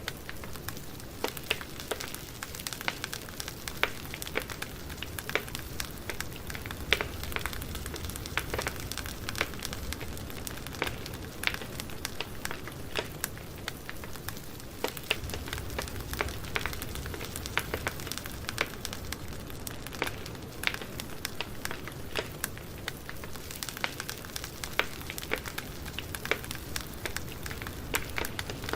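Campfire burning: wood crackling and popping in irregular sharp snaps over a steady hiss and a low rumble of flame.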